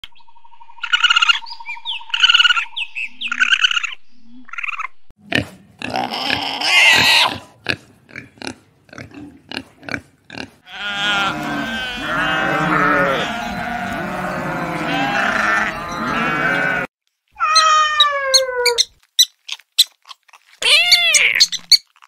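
A run of different animal calls, one after another with short gaps. The longest, from about 11 to 17 seconds, is a large flock of sheep bleating over one another. Short repeated pitched calls come before it, and a falling call and a few rising-and-falling calls follow near the end.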